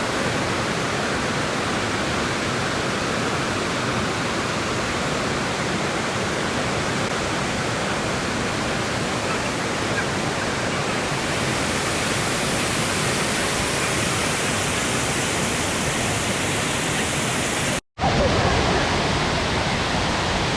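Steady rush of falling water from a waterfall, with a brief dropout near the end.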